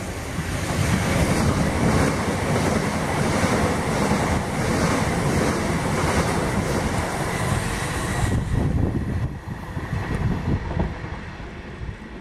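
Electric multiple-unit passenger train passing close by at a platform: a loud rush of wheels on rail with a steady whine over it and a run of wheel clatter in the middle. It fades off after about eight seconds, leaving gusts of wind on the microphone.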